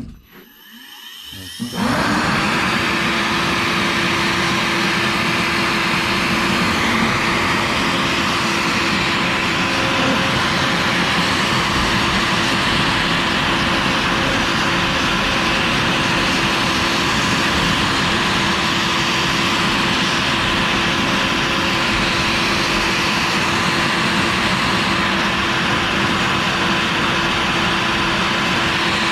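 CNC router spindle with a 1/8 inch end mill spinning up about two seconds in, then running at a steady pitch while it machines PVC.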